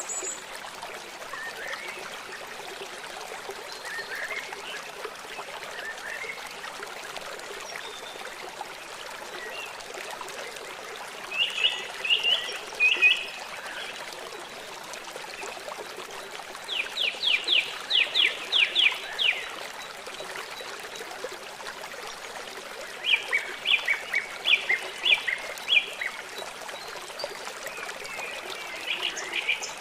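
Birds calling in three loud bursts of quick repeated chirps, with scattered fainter chirps, over the steady trickling rush of a stream.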